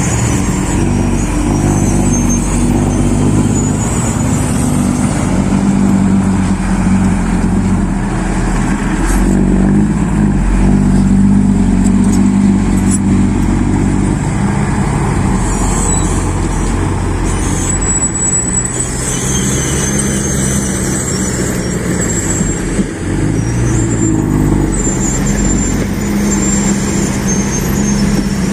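Mitsubishi Fuso dump truck's engine running under load, its pitch shifting up and down repeatedly.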